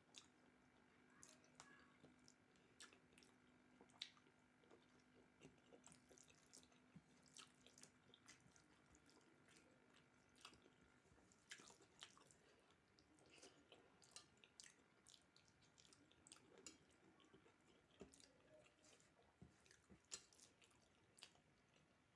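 Faint eating sounds: scattered soft clicks and smacks of a person chewing a rice meal, very quiet throughout.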